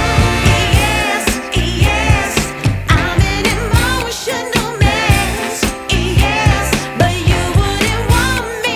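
A soul-pop song with a singer over bass and a steady beat of about two beats a second, played through a Crown CSC 615L stereo boombox.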